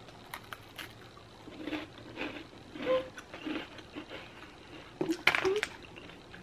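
A person biting and chewing a thin cacao-nib chocolate chip cookie: small crunches and clicks of the cookie breaking between the teeth. Two short hummed 'mm' sounds come about halfway through and near the end.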